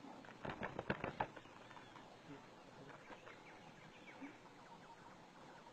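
A quick run of sharp knocks about half a second in, then faint bird chirps scattered through the rest.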